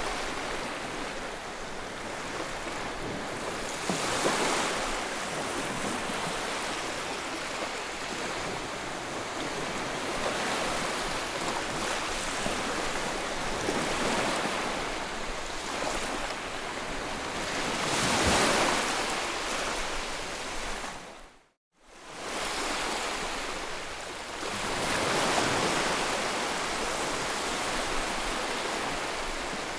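Ocean surf: waves washing in as a steady rush, swelling and easing every several seconds. Roughly two-thirds of the way through, the sound cuts out to silence for a fraction of a second and then comes back.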